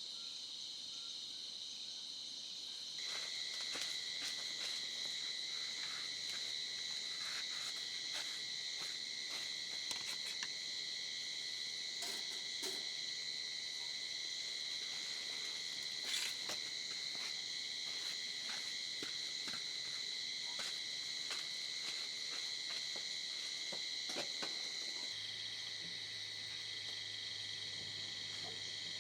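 Steady chorus of crickets and other night insects: a continuous high-pitched trill, with a second, lower trill joining about three seconds in. Scattered small ticks and taps sound over it, and a faint low hum comes in near the end.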